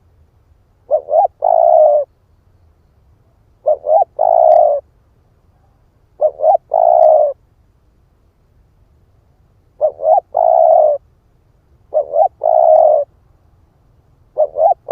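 Spotted dove cooing: six calls, each two short coos followed by a longer, drawn-out one, repeated every two to three seconds.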